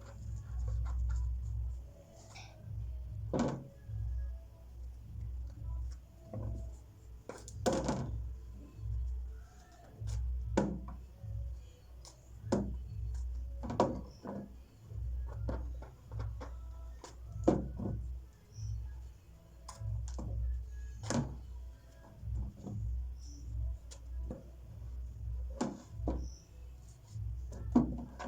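Irregular knocks and clatter of hands handling food and utensils, a sharp knock every second or two, over a steady low rumble.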